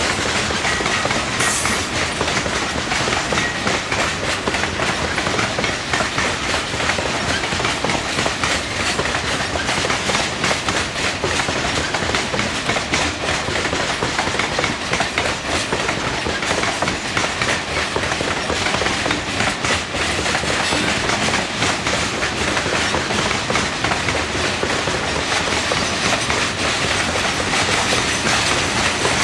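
Coal train's cars rolling past, a steady rumble with wheels clicking continuously over rail joints.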